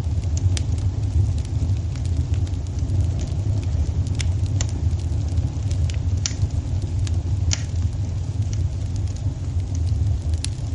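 Fireplace fire burning, with irregular sharp crackles and pops over a steady low rumble.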